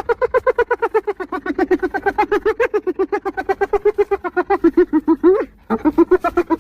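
Spotted hyena giggling: a fast run of short yelping notes, about ten a second, dipping slightly in pitch and then holding steady, that breaks off briefly near the end and starts again.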